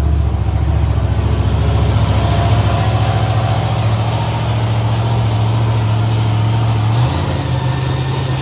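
A large vehicle engine idling steadily, its note shifting slightly about seven seconds in.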